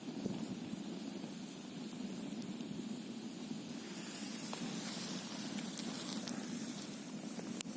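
Campfire burning with scattered crackles and a sharp pop near the end, over a steady rushing hiss.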